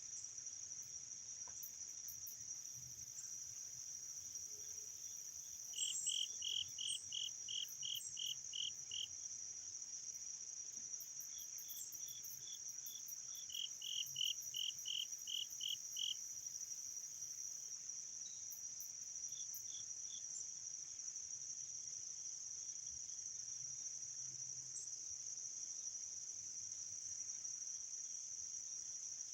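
Insect chorus: a steady high-pitched drone of crickets. Over it, twice, comes a run of evenly spaced chirps at about three a second, each lasting a few seconds.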